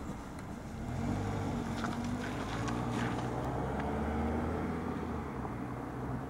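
A motor vehicle's engine running with a steady low hum, growing louder about a second in and easing off near the end.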